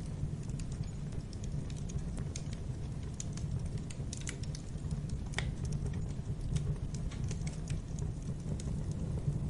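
Wood fire crackling in a fireplace: irregular sharp crackles and pops, one louder pop about five seconds in, over a steady low rumble of the flames.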